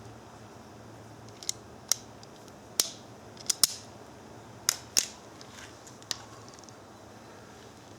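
Wire stripper working: about eight sharp clicks and snaps, irregularly spaced, some in close pairs, as the tool's jaws clamp and strip a wire.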